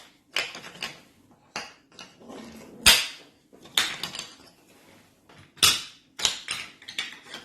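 Wooden toy train pieces and track knocking and clacking together as they are handled, in irregular sharp knocks with lighter rattling between.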